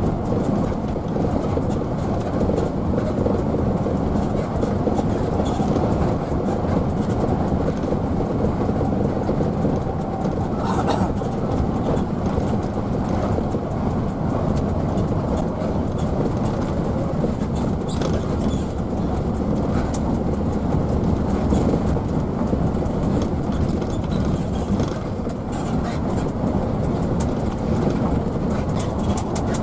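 Hino AK bus driving, heard from inside the passenger cabin: a steady drone of diesel engine and road noise, with faint rattles now and then.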